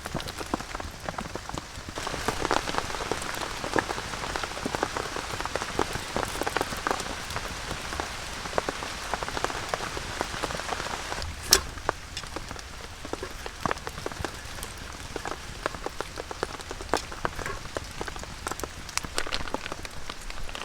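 Heavy rain falling, a dense irregular patter of drops that grows louder about two seconds in, with one sharp, louder tap a little past halfway.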